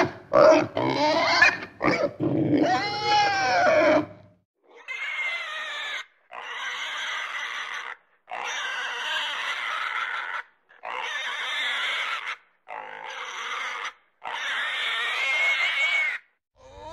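A pig grunting and squealing. The first few seconds hold a run of loud calls that swoop up and down in pitch, then come about six quieter, drawn-out calls of a second or two each, separated by short gaps.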